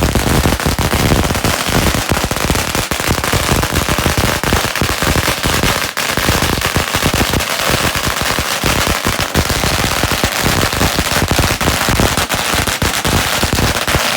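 A long string of firecrackers going off, a loud, rapid, continuous crackle of pops with no let-up.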